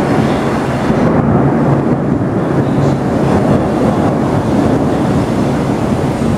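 Thunderstorm noise: a loud, steady low rumble of wind and rain.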